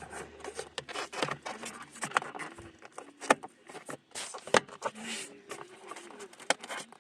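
Hands working with small hard parts and wiring, making irregular clicks, taps and scrapes, with a few sharper knocks.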